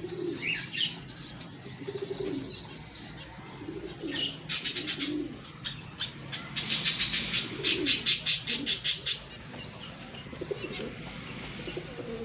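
Pigeons cooing in short low calls, with rapid high-pitched chirping over them that is loudest and densest from about four to nine seconds in, then falls away.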